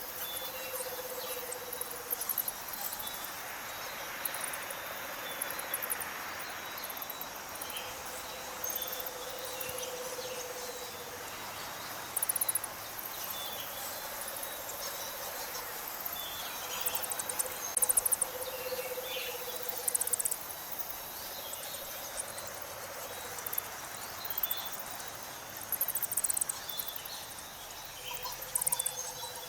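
Insects calling at dusk: a steady high chirring, with repeated crisp, loud clicking trills and scattered short chirps. A low droning note comes and goes every few seconds.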